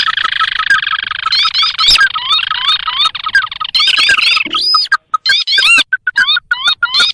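Lure-call recording of sintar crakes calling. A fast, repeated series of short chirping notes runs with higher sweeping notes over it. For the first few seconds the calls pile up densely, then thin to sparser calls, with a brief break about five seconds in.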